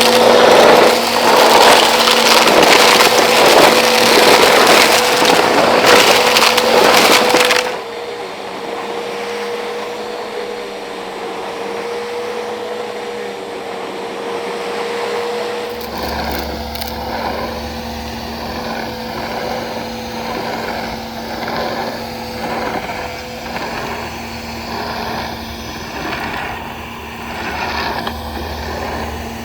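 Bissell PowerForce Helix upright vacuum cleaner running, with a dense crackling rattle of grit and small stones being sucked up for the first several seconds. Then it goes much quieter, leaving the motor's steady hum, and a low rumble joins about halfway through.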